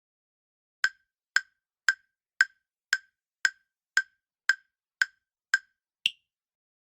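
Quiz countdown timer sound effect: ten sharp, evenly spaced ticks about two a second, then a final tick of a different pitch that ends the count.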